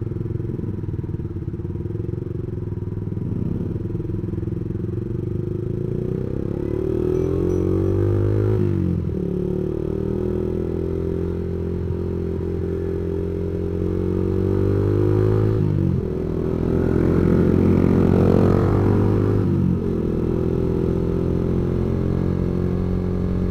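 Yamaha MX King 150's single-cylinder four-stroke engine running through a custom straight-through racing exhaust under way, its pitch climbing as it accelerates and dropping sharply at gear changes about nine, sixteen and twenty seconds in.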